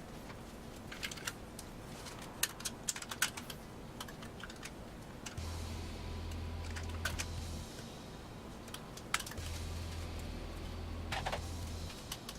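Light clicks and taps of computer hardware being handled and fitted, in irregular clusters. A low hum comes and goes from about halfway through.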